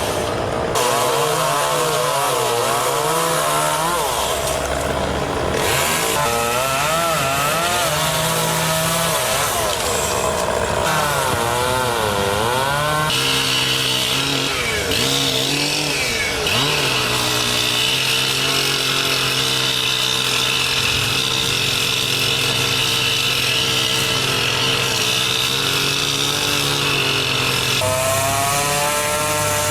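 Chainsaw running, its pitch rising and falling as it revs and labours. About halfway through it settles to a steadier high pitch, with a few abrupt changes.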